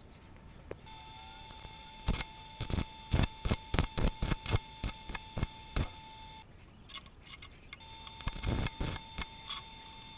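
Sharp knocks and clicks in an irregular run, over a steady high tone that starts and stops with them; the two break off for a second or so and then resume.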